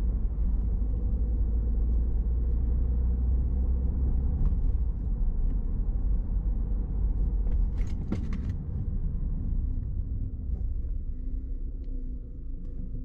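Car driving along, heard from inside: a steady low engine and road rumble, with a few sharp clicks about eight seconds in. The rumble eases slightly near the end.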